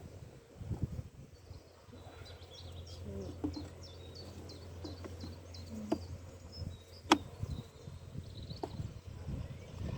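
Honeybees humming steadily around an open hive, with a few sharp knocks from wooden hive frames being handled, the loudest about seven seconds in.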